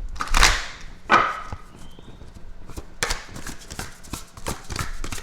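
A new deck of tarot cards being shuffled by hand: a quick run of papery taps and slaps, with louder swishes about half a second in, at one second and at three seconds.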